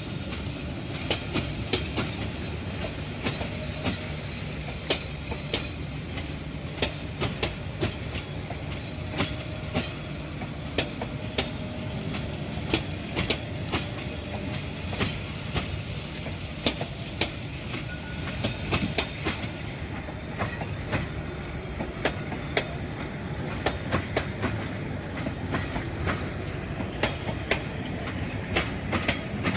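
A train's wheels rolling over the track: a steady low rumble with a rapid, uneven series of sharp clacks as the wheels cross the rail joints.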